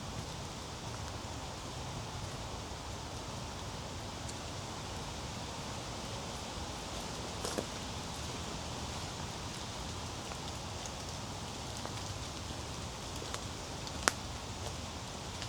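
Steady rustling of a hiker moving along a wet, overgrown woodland trail, with two sharp clicks, one about halfway and a louder one near the end.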